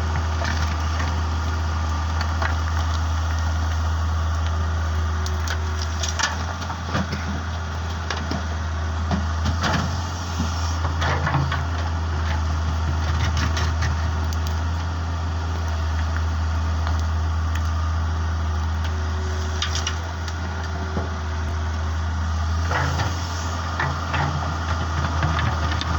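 Hitachi EX100 excavator's diesel engine running steadily while it loads a dump truck, with scattered clatters and knocks of earth and rock dropping into the truck bed.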